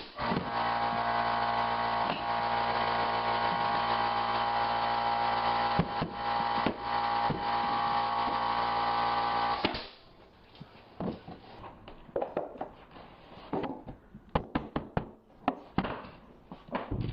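An electric motor running at a steady pitch for about ten seconds, then cutting off. After it come scattered sharp knocks and taps.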